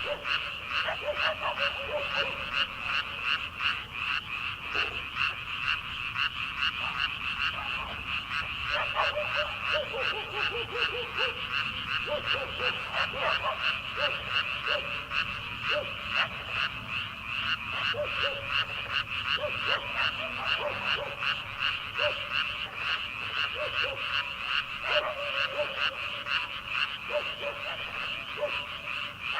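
Chorus of many rice-paddy frogs calling at once: a dense, fast-pulsing high chorus throughout, with separate lower croaks from other frogs scattered over it.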